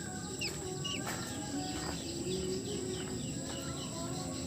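Chicks peeping in short, repeated chirps, over a steady high-pitched whine.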